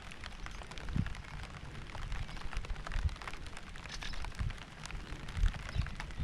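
Rain falling, with many separate drops ticking, over a low, uneven rumble.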